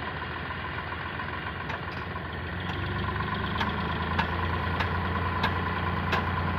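Heavy machinery diesel engine running steadily, growing louder about three seconds in, with a string of sharp knocks repeating roughly every two-thirds of a second.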